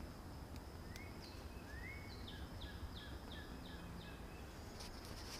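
A songbird singing a run of about five quick repeated notes over a steady high insect drone.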